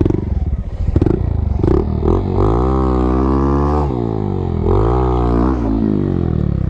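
Honda Monkey's small single-cylinder engine being throttled while the bike is walked over a log. A few short blips come first, then a rising rev held for about a second and a half before it drops back, and a second, shorter rev.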